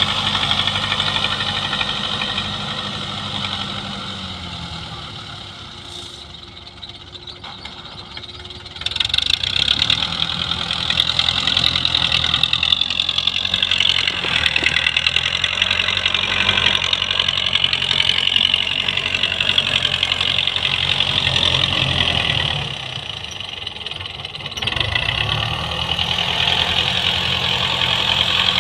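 Belarus tractor's diesel engine running; its note sinks and fades from about three seconds in, comes back sharply and louder about nine seconds in, and dips briefly once more near the end before picking up again.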